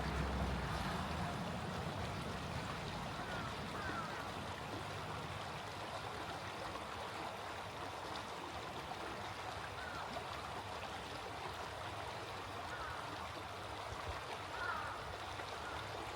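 Small stream flowing steadily, a continuous babble of water, with a few faint short bird calls now and then.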